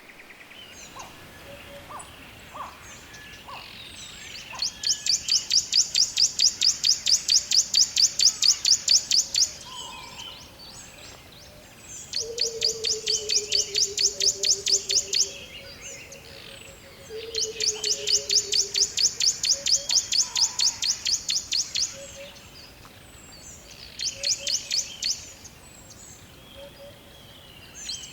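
Forest birdsong: a loud, rapid trill of high notes at about eight a second, repeated in four bursts of one to five seconds, over fainter chirps of other birds. Two low falling whistles come in the middle.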